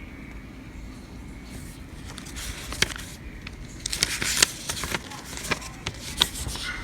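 Packaging being handled during an unboxing: crackling and scraping with sharp clicks, busiest from about two to five seconds in.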